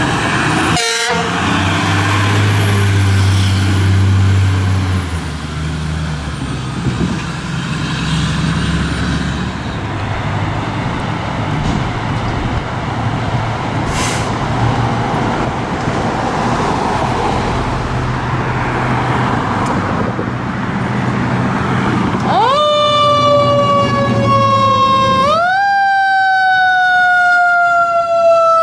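Heavy fire apparatus engines running amid road noise. About three-quarters of the way through, a fire truck's siren starts up: it sweeps up to a high wail, glides slowly down, then sweeps up again.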